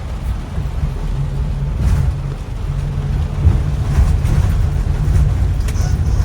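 Minibus engine and road rumble heard from inside the cabin: a steady low drone with an engine hum, and a few light knocks.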